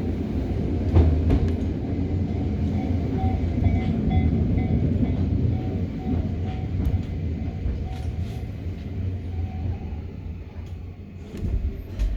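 Cabin sound of a Hokuriku Railroad 03 series trailer car running on the track: a steady low rumble with occasional rail-joint clicks. It grows quieter toward the end, with a couple of low thumps just before the end.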